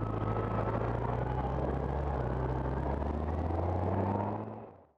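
2016 Yamaha FJR1300's inline-four engine running steadily under way, with wind and road noise, fading out near the end.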